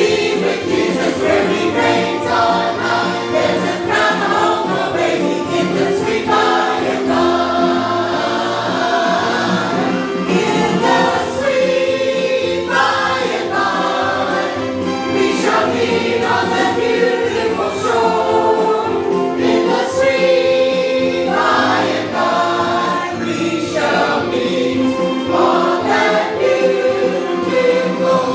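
Many voices singing a worship song together in church.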